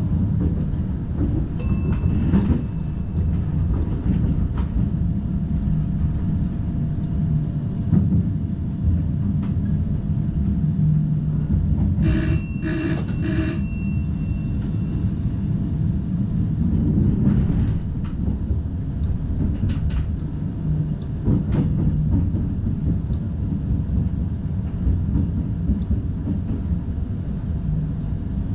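Steady low running rumble of an NS DDZ double-deck electric train, heard from inside the driver's cab. A short electronic chime sounds about two seconds in, and three quick chimes follow one another near the middle.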